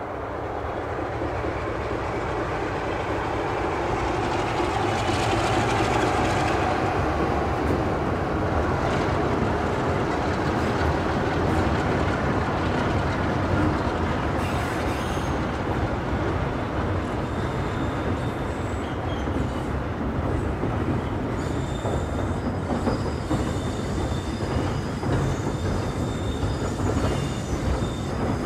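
Diesel-hauled passenger train running past, a steady rumble of coaches and wheels on the rails that grows louder over the first few seconds and then holds, with faint high wheel squeals in the second half. The train is hauled by a Sulzer-engined BR Peak-class diesel.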